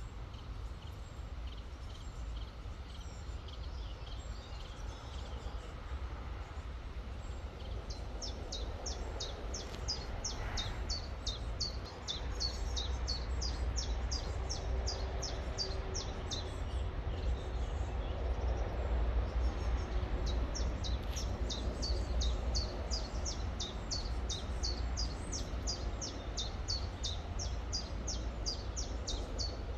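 A small songbird singing long runs of quick, high, down-slurred notes, one run starting about eight seconds in and another about twenty-one seconds in, over a steady low rumble.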